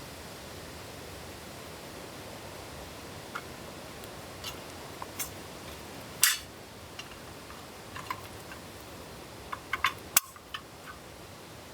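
Steady hiss of rain in a forest, with scattered light clicks and taps on top; the two sharpest come about six and ten seconds in.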